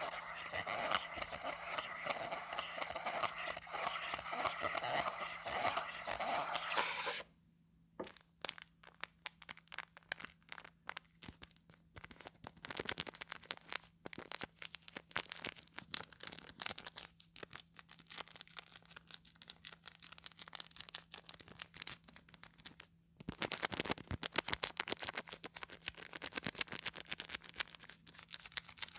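Comb teeth scraped across a sheet of calendar paper, making a dry scratchy rasp. It is continuous for about seven seconds, stops briefly, turns into irregular scratches and clicks, then becomes dense again near the end.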